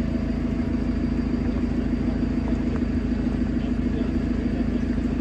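A steady low rumble with a constant hum, even throughout, mechanical in kind like a running motor.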